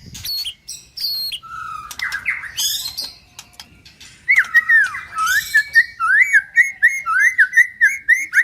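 Male white-rumped shama singing: varied whistled and chattering phrases, then from about four seconds in a quick run of repeated rising-and-falling notes, roughly three a second.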